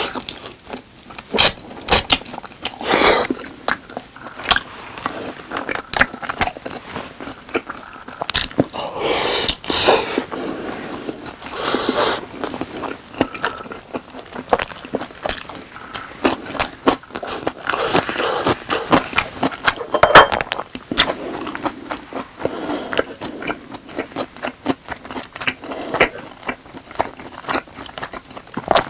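Close-miked eating sounds: a person biting and chewing Goobne Volcano boneless fried chicken with rice, a dense run of short sharp clicks with a few longer scraping sounds.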